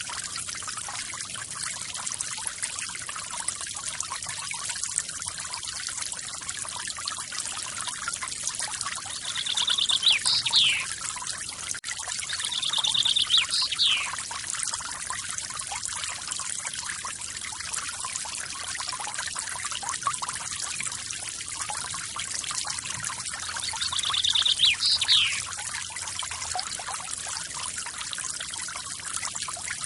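Forest waterfall running steadily, a splashing, trickling rush. Over it a bird calls three times, each call a quick buzzy trill ending in a fast downward sweep.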